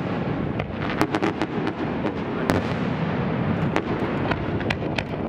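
Aerial fireworks display going off in a dense barrage: a steady rumble of shell bursts with many sharp cracks and pops scattered through it, the loudest cracks about a second in and about halfway through.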